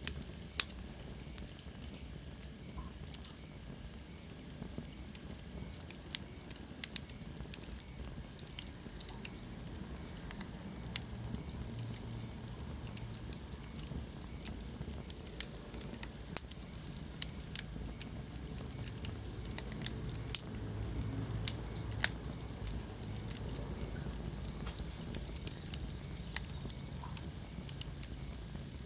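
Wood fire burning in a fireplace: irregular sharp crackles and pops over a low rumble of flames, with a faint high whistle that falls in pitch in the first few seconds.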